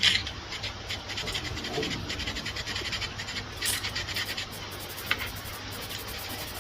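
Quick, rhythmic rasping strokes, like a file or abrasive being worked back and forth over metal, with a louder scrape at the start and another a little past the middle. A single sharp click comes near the end, over a steady low hum.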